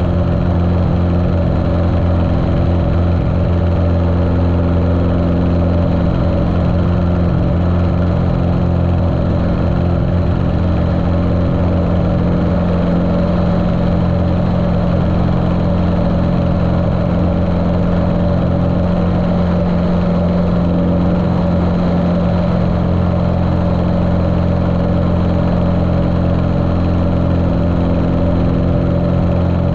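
Continental O-200 four-cylinder engine of a Cessna 150L running steadily, muffled by the camera's waterproof case.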